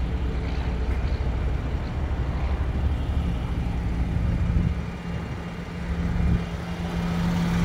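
2018 Mercedes-AMG C43's twin-turbo V6 idling steadily, heard from beside the car, with a low rumble that dips briefly about five seconds in.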